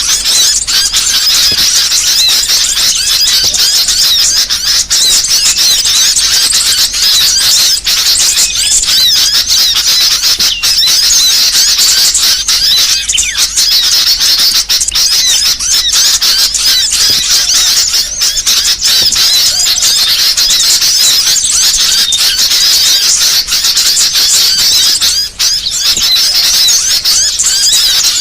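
Dense, unbroken chorus of rapid high-pitched chirps and twitters from many small songbirds calling over one another, a small-bird lure call recording.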